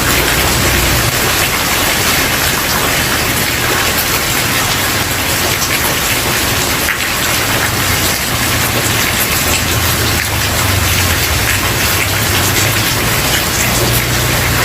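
Steady rain falling on a wooden porch, a dense even hiss of drops, with a low rumble beneath it that swells and fades.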